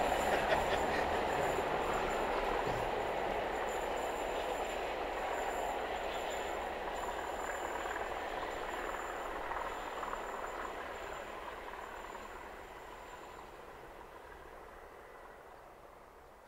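Diesel-hauled excursion train running away into the distance, its rumble fading steadily until it is barely audible, with a faint high-pitched wheel squeal over it that dies away about thirteen seconds in.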